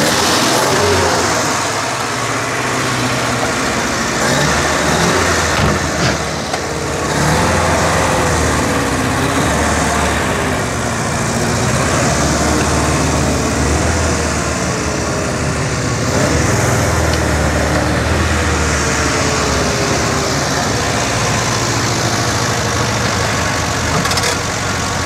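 Škoda 100's rear-mounted four-cylinder petrol engine running steadily, just brought back to life after being laid up. The men call it running like clockwork, though they suspect its borrowed Moskvich carburettor is poor.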